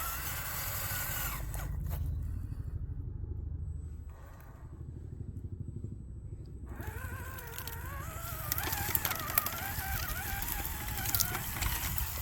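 Electric motor and gears of an RC crawler whining, the pitch wandering up and down with the throttle, over a rough low rumble. The whine drops out for about four seconds in the middle and then picks up again, with a few clicks near the end.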